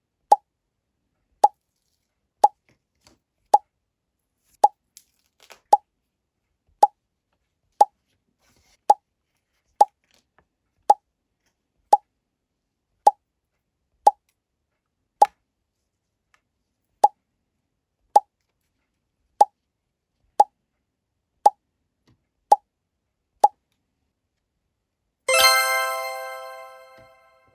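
A short cartoon "plop" sound effect repeats about once a second, over twenty times with a brief pause partway through. About twenty-five seconds in, a bright chime rings out and fades over about two seconds.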